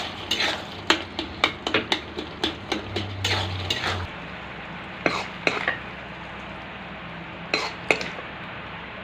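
A spoon stirring and scraping ridge gourd curry in a karahi, clinking quickly against the pan for about four seconds, then only a few scattered knocks.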